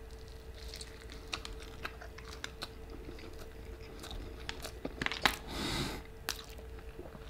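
Close-up chewing of a big bite of a Flamin' Hot Cheetos–coated sope: scattered wet mouth clicks and small chewing sounds, with a louder stretch about five seconds in, over a faint steady hum.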